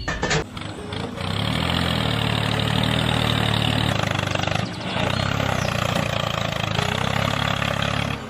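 Engine sound of a mini tractor: a short sharp click, then the engine running steadily at idle, with a brief dip just under five seconds in. It cuts off abruptly at the end.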